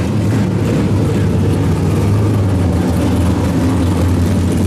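Drift cars' engines running on the track, heard as a steady low drone with a constant wash of noise over it.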